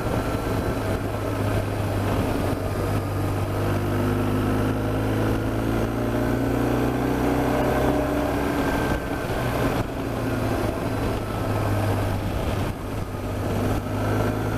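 BMW R1200GS Adventure's boxer-twin engine running under way on a motorcycle ride, heard steadily with its note shifting in pitch partway through.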